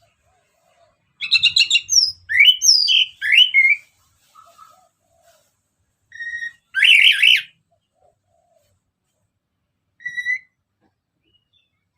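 Orange-headed thrush in full song: bursts of varied, sliding whistled phrases with pauses between them. A long run of phrases starts about a second in, another comes around six seconds in, and a short one near the end.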